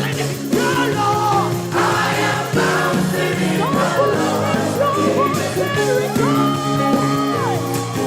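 Gospel praise music: a singer's voice over a live band, with a choir joining in, one long held note near the end.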